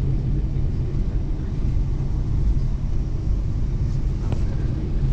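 Steady low rumble of an airliner's engines and airframe heard from inside the passenger cabin while the plane is still on the ground before takeoff.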